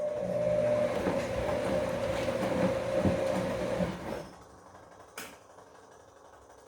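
Bosch Komfort-Klasse washing machine running mid-cycle: a loud burst of about four seconds, a steady mid-pitched tone over a hiss, that cuts off. A short click follows about a second later.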